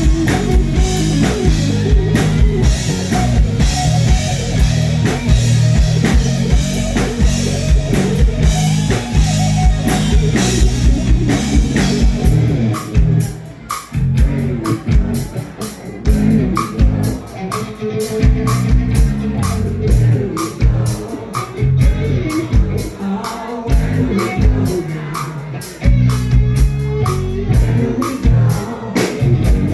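Live rock band playing, with drum kit, guitar and singing. About halfway through the cymbals drop out and the music thins to a sparser drum beat, then fills out again near the end.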